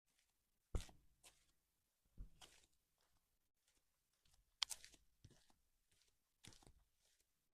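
Faint, unhurried footsteps crunching on a path, one step about every second or so, with a few softer scuffs in between.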